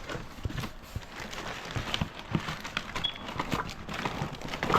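Irregular clicking and clattering of small parts and fittings being handled and rummaged through in bins of electrical supplies.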